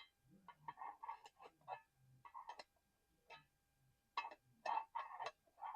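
Irregular taps and short scratchy rubs on a small hard object, in quick clusters with brief pauses between them.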